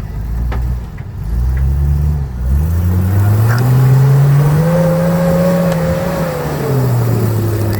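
Built off-road 4x4's engine revving: the revs climb in steps, hold high for a few seconds, then drop back near the end, as the vehicle is bumped at a rock ledge. A few short knocks come early on.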